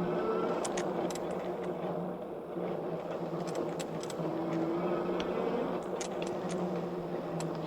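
E-bike riding over cracked concrete: steady tyre and motor noise with a faint whine that rises and falls, and sharp clicks and rattles as the wheels cross cracks and seams.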